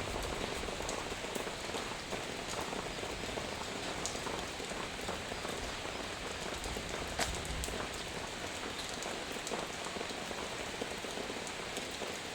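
Heavy rain falling steadily, with scattered sharper drop ticks through the hiss and one louder tick about seven seconds in.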